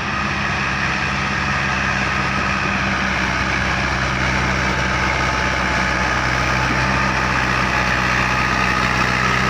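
Fiat 640 tractor's diesel engine running steadily at constant speed, growing slightly louder.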